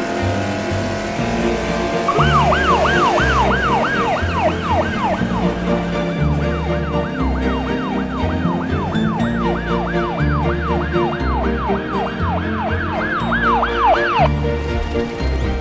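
Fast rising-and-falling siren yelp, about three sweeps a second, starting about two seconds in and cutting off shortly before the end, over instrumental music with a steady bass beat.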